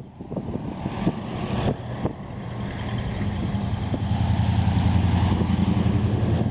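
Truck engine running, growing louder from about halfway through as it comes closer, with wind buffeting the microphone.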